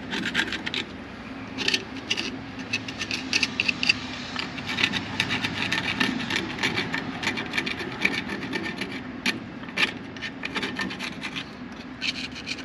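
Irregular rubbing and scraping strokes of a tool working over a part to clean off buildup, over a steady low hum.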